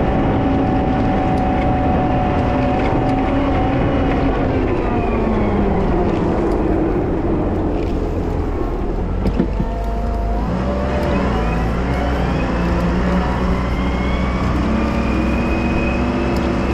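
Wheel loader's diesel engine running under load, its pitch falling off about a third of the way in and climbing again after a short knock near the middle.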